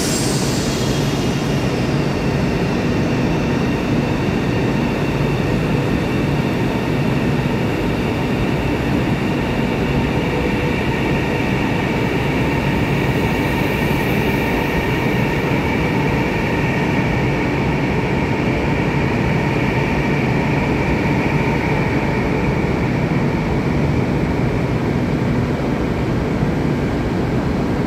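Chinese high-speed electric train moving along the platform: a steady, loud rumble with a high electric whine running over it.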